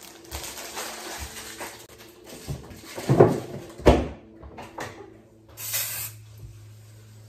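Household tidying: objects being handled and set down, with two louder knocks a little after three seconds and just before four seconds, then a short hiss near six seconds.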